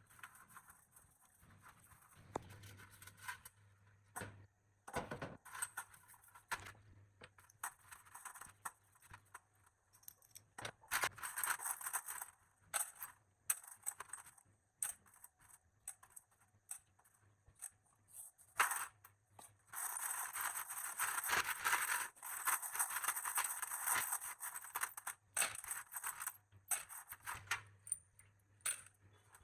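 Clinks and taps of small metal parts being handled, with two longer stretches of steady scraping or brushing, one about ten seconds in and a longer one about twenty seconds in.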